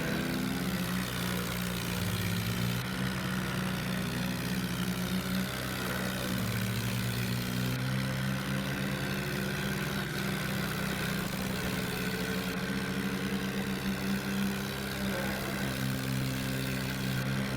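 Swaraj 744 tractor's diesel engine running steadily, its pitch stepping slightly a few times.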